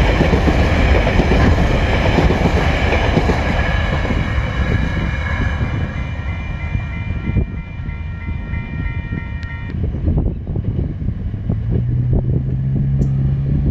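Empty coal hopper wagons rolling past on steel wheels, a loud rumble and clatter over the rail joints that fades from about six seconds in as the end of the train moves away. A level crossing warning bell rings over it and stops about ten seconds in.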